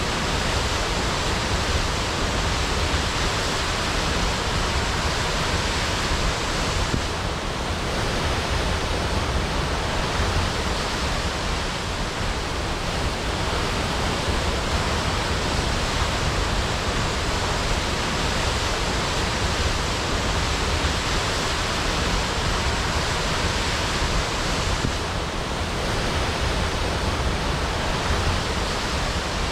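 Waterfall: the steady, unbroken rush of crashing water.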